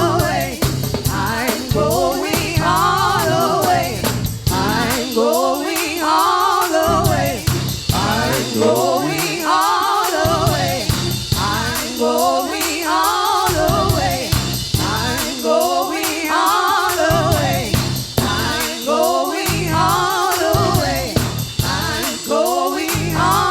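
Gospel praise song: voices singing together over a band with bass and a steady drum beat.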